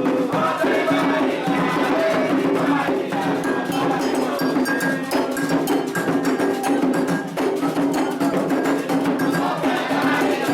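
Candomblé toque: atabaque hand drums and an agogô bell playing a fast, steady rhythm, with voices singing over it.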